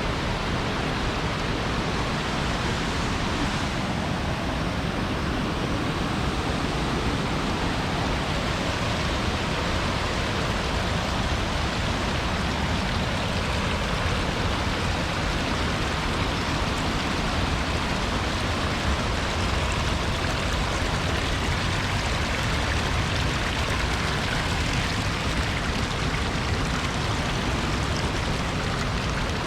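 Steady, unbroken rush of falling water from a mountain waterfall's cascade.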